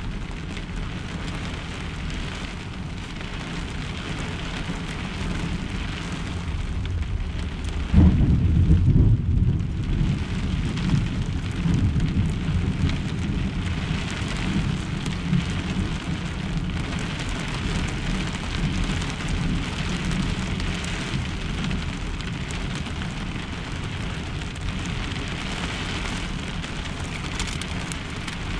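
Heavy rain falling steadily on a pickup truck's camper shell, heard from inside it. About eight seconds in, a loud low thunder rumble breaks in and rolls on for several seconds before fading back under the rain.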